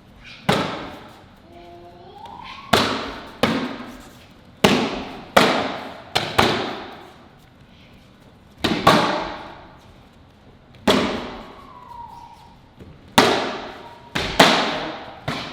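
Kicks and punches landing on karate kicking paddles: about a dozen sharp slaps, often in quick pairs of strikes, each echoing briefly in the room.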